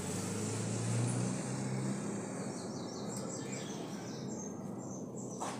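Birds chirping in short high calls over a steady background noise, with a low hum fading out about two seconds in.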